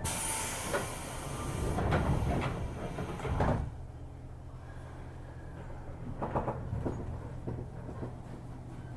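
Air hiss and a series of thumps as the sliding doors of a 205-series commuter train close, then the stationary car's steady low hum.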